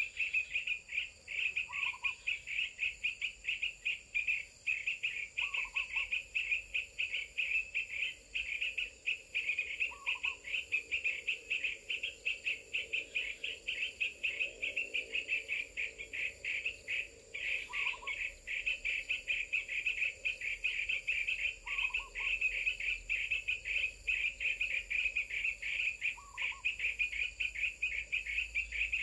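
Rapid, unbroken high-pitched chirping, with a short lower call repeating about every four seconds.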